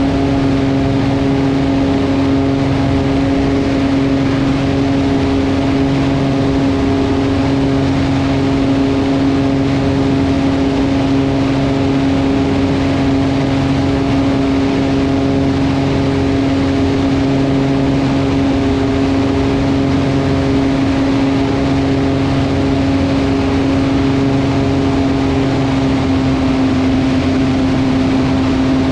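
Velocity V-Twin's engines and propellers running steadily at a constant pitch, with a slow throb every few seconds.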